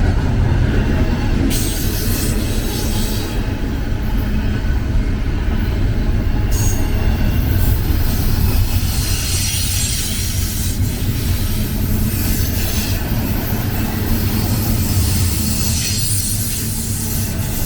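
BNSF freight train rolling past: a steady low rumble of the cars on the rails, with high wheel squeal and hiss coming and going in stretches.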